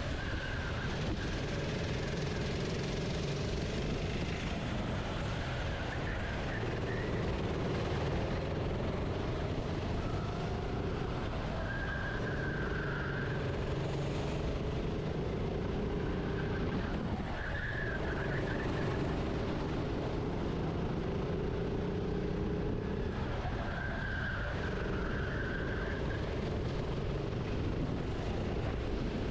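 Onboard racing kart engine at race pace. Its pitch climbs on each straight and drops back as the throttle is lifted for the corners, several times over.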